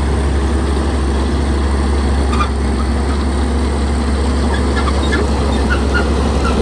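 Shantui bulldozer's diesel engine running steadily, with a string of short high chirps scattered through the second half.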